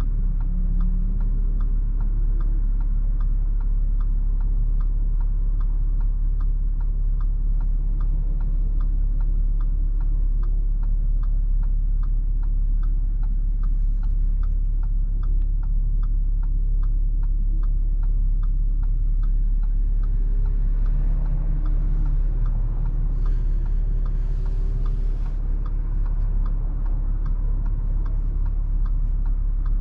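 Cabin sound of a 2017 Audi SQ5's 3.0-litre V6 running through AWE non-resonated downpipes and Touring catback exhaust: a steady low rumble. Over it, the turn-signal relay ticks evenly about twice a second.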